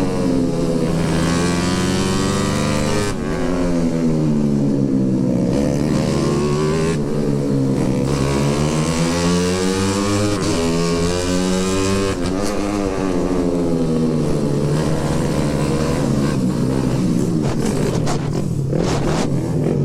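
Motorcycle engine under way, its pitch rising and falling repeatedly as the rider opens and eases the throttle. A few sharp clicks come near the end.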